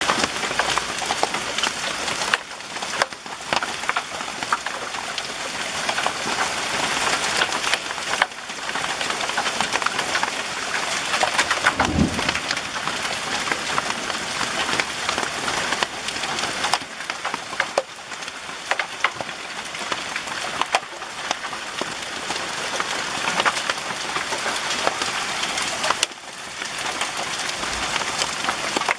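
Hailstorm: a dense, loud clatter of hailstones striking surfaces, with many sharp individual hits. A brief low thud comes about twelve seconds in.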